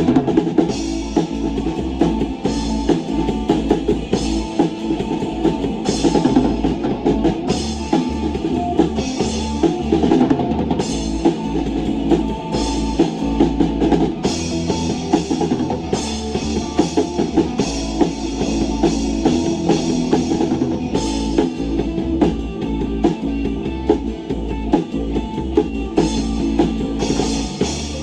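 A live rock band playing without vocals: a drum kit with bass drum and repeated cymbal hits drives a steady beat under guitar and bass.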